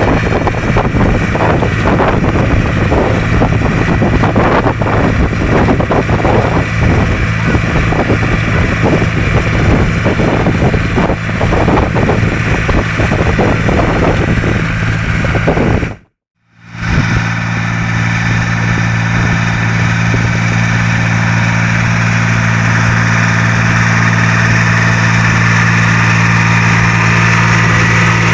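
The BJR Samurai 60 compact articulated tractor's engine runs steadily while driving a rotovator at work. Wind buffets the microphone through the first half. The sound cuts out briefly a little past halfway, then the engine runs on more evenly.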